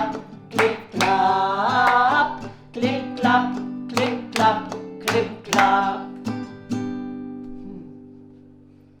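Acoustic guitar strummed in steady chords, with a sung note held for about a second near the start; the final chord, just before seven seconds in, rings out and fades away.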